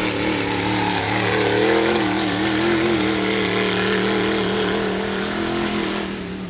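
Rock bouncer buggy's high-horsepower engine running hard under throttle, its pitch wavering up and down, then fading away near the end.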